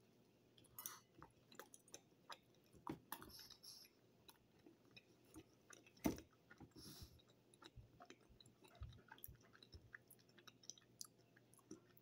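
Faint close-up chewing of a bite of blueberry fritter: soft, irregular mouth smacks and small clicks, with one sharper click about six seconds in.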